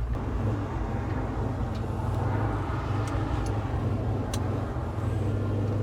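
The 1966 Chevy C10's 383 stroker V8 running at a steady cruise, heard from inside the cab as a low, even drone with road noise. A few faint ticks come through over it.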